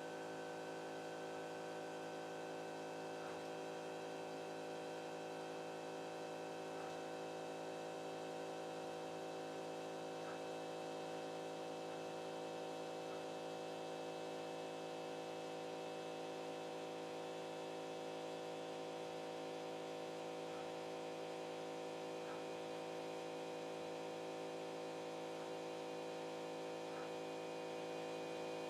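Stepper motors of a CNC pen-drawing machine running, a steady hum and whine made of several held tones, with a few faint ticks scattered through.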